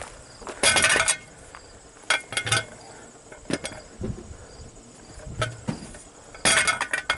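Compressed-air blow gun giving several short hissing blasts while blowing dust and hay chaff out of a truck's air-intake screen and filter. The longest blasts, about half a second each, come near the start and near the end, with a quick cluster of shorter ones in between.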